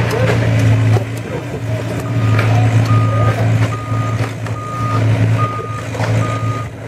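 Heavy diesel equipment running with a steady low drone. Its backup alarm starts beeping about two seconds in, about six beeps a little under a second apart. Scattered knocks and clatter come through over it.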